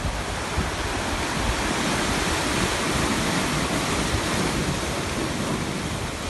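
Sea waves washing onto a shore, a steady surf that swells about halfway through and eases off, with low wind rumble on the microphone.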